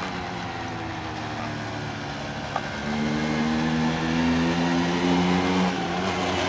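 Mini motorcycle's small engine running under way. About three seconds in it gets louder and its pitch climbs slowly as it speeds up, then eases off a little near the end.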